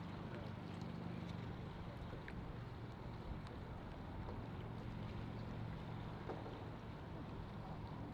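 Boat motors idling at the dock with a steady low hum, over wind noise on the microphone; the hum dips a couple of seconds in and comes back about four and a half seconds in.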